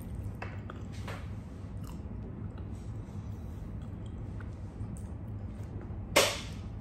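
Faint chewing and mouth clicks while eating banana, over a steady low hum, with one loud sharp snap near the end.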